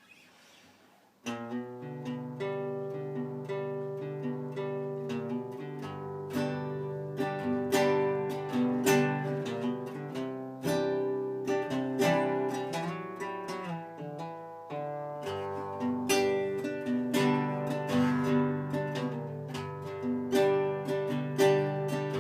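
Music played on a plucked string instrument, picked notes over ringing chords, starting suddenly about a second in.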